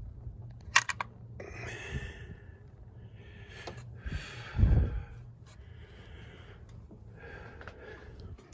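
A person breathing audibly, about four breaths. A couple of sharp clicks come about a second in, and a low thump comes about halfway.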